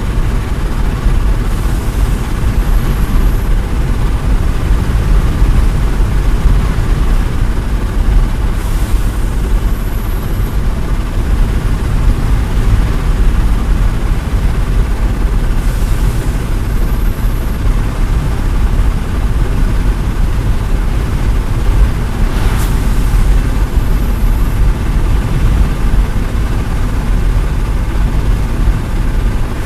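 A concrete pump's engine runs steadily under heavy wind buffeting on the microphone. A short hiss, followed by a thin high tone, comes back about every seven seconds.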